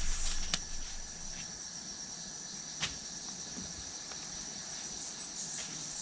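Steady high-pitched insect trill from the surrounding forest, with two sharp clicks, one about half a second in and one about three seconds in. A low rumble fades out in the first second.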